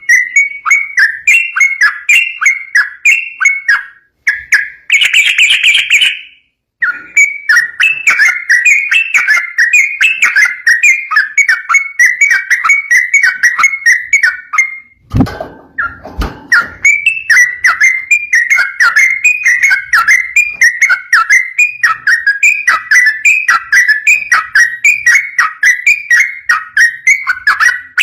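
Yellow-vented bulbul (trucukan) singing a long, fast chattering 'ropel' song: rapid runs of repeated whistled notes. The song breaks off twice, once with a brief harsher burst about five seconds in. A short low thump comes about fifteen seconds in.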